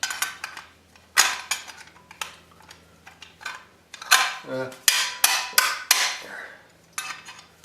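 Knockout being tapped out of the bottom of a metal electrical box: a series of sharp metallic clanks, unevenly spaced, each with a short ring.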